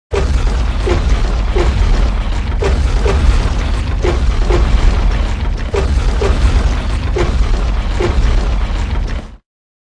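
Sound effect for a fictional giant monster. A deep, steady rumble runs under a string of about a dozen short falling chirps, irregularly spaced, and it cuts off abruptly near the end.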